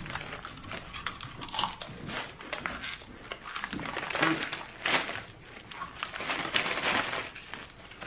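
Chips being eaten from a bag: irregular crisp crunching and crinkling strokes, some louder and sharper than others.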